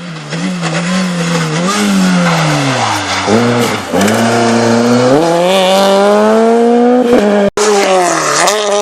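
R2-class rally car engine revving hard on a stage: the pitch drops low about three seconds in, then climbs steadily under acceleration and falls and rises again near the end. The sound cuts out for an instant about seven and a half seconds in.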